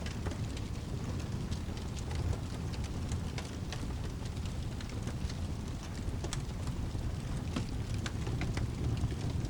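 Ambience mix of steady rain over a constant low rumble, with the sharp, scattered crackles of a wood fire in a fireplace.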